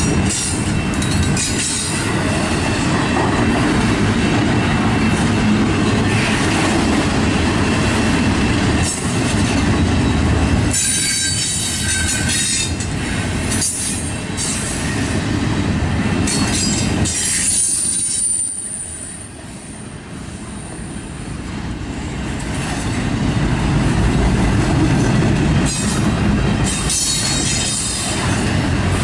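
Double-stack intermodal container well cars rolling past on the rails: a steady loud rumble and clatter of steel wheels. Partway through, the sound eases briefly and a thin high wheel squeal rings out, before the rumble builds again.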